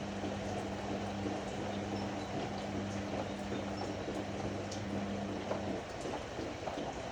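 Ariston AML125 washer-dryer running, with water sloshing and light clicks over a steady low hum that stops about six seconds in.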